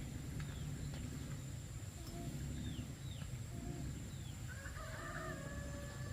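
Chickens calling: short clucks and high chirps, then a longer drawn-out call near the end, over a steady low rumble.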